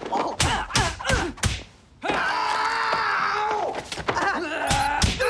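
A run of sharp thuds, then a long drawn-out groaning voice of about two seconds, then a few more thuds near the end.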